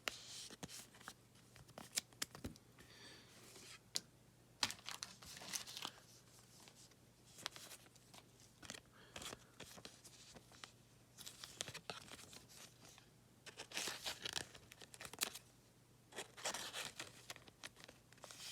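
Trading cards being slid into soft plastic penny sleeves and handled: intermittent crinkling and rustling of thin plastic with small clicks and taps, over a faint steady low hum.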